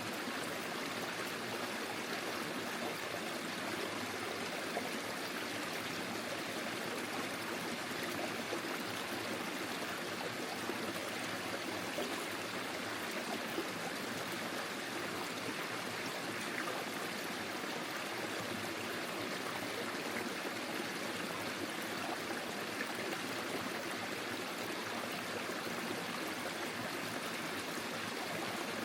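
Forest stream flowing over stones: a steady babble of running water.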